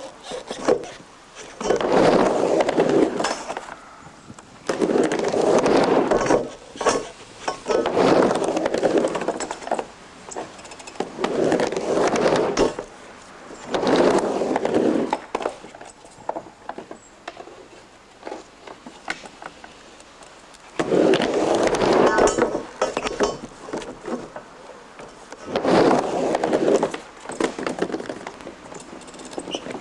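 Skateboard wheels rolling back and forth across a mini ramp, the rumble surging with each pass every two to three seconds, with sharp clacks of the board in between. There is a lull of several seconds about two-thirds through.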